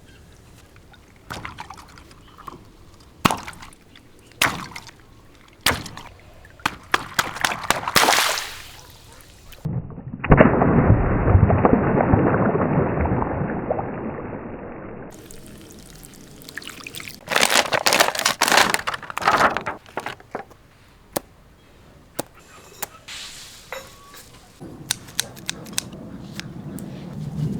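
Water sloshing and pouring around stretchy rubber toys being filled with water, with scattered knocks and squishes. About ten seconds in comes a sudden loud rush of water that fades away over about five seconds.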